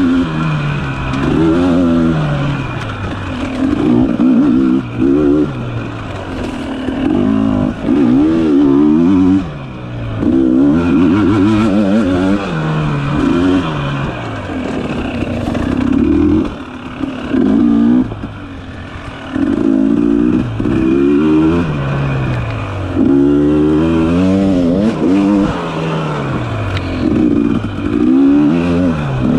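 Dirt bike engine revving up and down over and over as the throttle is opened and closed along a tight trail, with a few brief dips where the rider rolls off the throttle.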